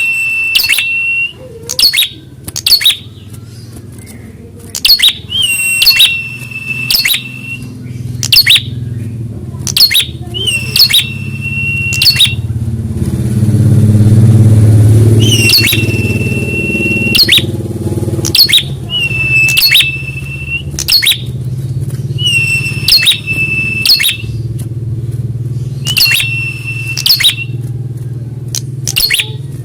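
Prenjak (prinia) calling: quick runs of sharp chips, each ending in a held high whistle, repeated every few seconds. A low engine drone underneath swells and fades about halfway through.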